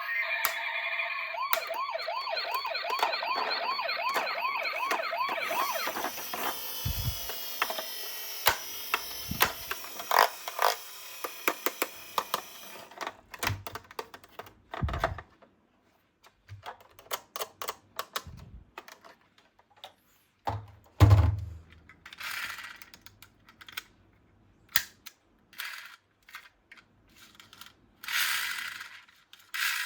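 Toy police car's electronic siren warbling quickly for several seconds, then other siren tones. This gives way to clicks, clatter and a few thumps of the toy cars being handled and set down; the loudest thump comes about two-thirds of the way through.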